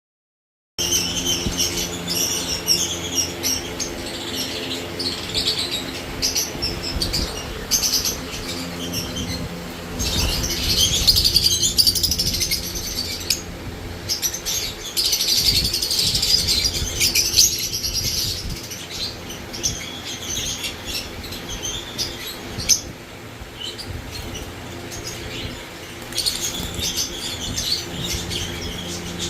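Many caged lovebirds chattering and chirping together in a dense, continuous din, starting about a second in. A steady low hum runs beneath.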